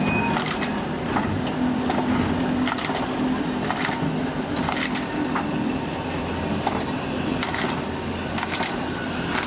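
Train running along the track: a steady rumble with sharp clicks of the wheels over rail joints every second or so, some in quick pairs.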